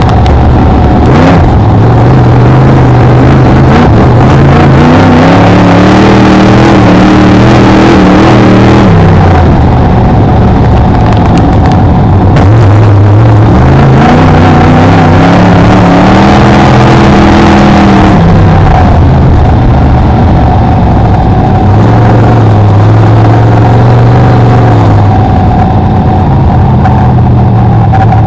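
Loud Brisca F1 stock car V8 race engine heard from on board, with a constant noisy haze over it. The engine climbs in pitch and holds, then falls sharply about nine seconds in. It climbs again and falls once more at about eighteen seconds, then runs lower and steadier.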